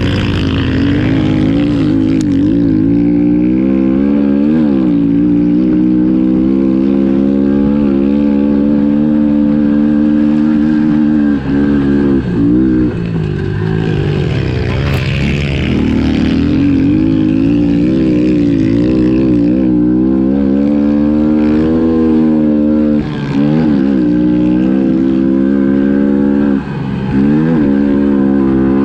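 Pit bike's small four-stroke single-cylinder engine revving hard through a ride, its pitch climbing and falling again and again as the rider works the throttle and gears. It briefly cuts out about a dozen seconds in, again past twenty seconds, and once more near the end.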